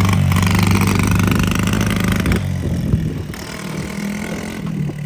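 Small dirt bike engine running under throttle in a low gear, loud for the first couple of seconds, then dropping off as the throttle eases or the bike moves away.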